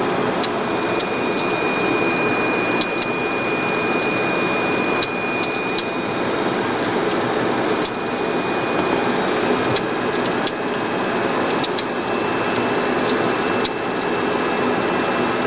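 Steady flight-deck noise of a Boeing 737-200, a continuous rush of engine and air noise with a thin high whine over most of it and scattered faint clicks.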